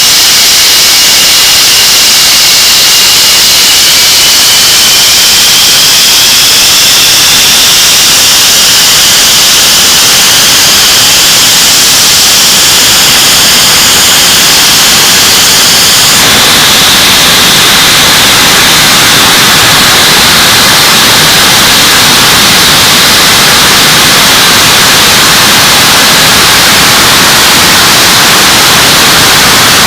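English Electric Lightning's Rolls-Royce Avon turbojet running loud on a ground run-up to power, engines first run in some 30 years. A steady roar carries a high compressor whine that climbs slowly, then changes abruptly about halfway through.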